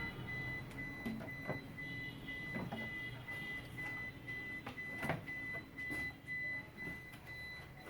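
Scattered clicks and knocks of an LED TV's back cover being worked open, over a low steady hum and a high beeping tone that repeats in quick pulses.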